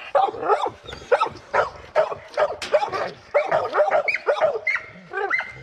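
Several dogs barking in quick, overlapping barks and yips, about two to three a second.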